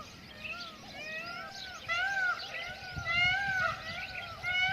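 Peafowl calling in a rapid series of short, arched, nasal calls, about two a second, with more than one bird overlapping. A short fast chatter from another bird cuts in about three seconds in.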